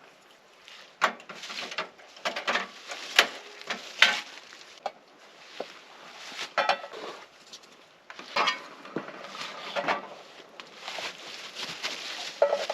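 Cooking utensils clinking and scraping against pots and pans in irregular, uneven knocks.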